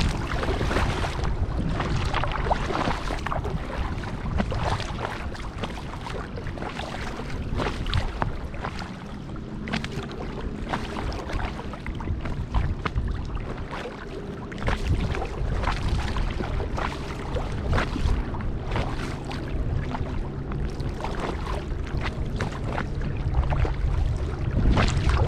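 Kayak paddle strokes in lake water: repeated dips and splashes with dripping and water lapping at the hull, over a steady rumble of wind on the microphone.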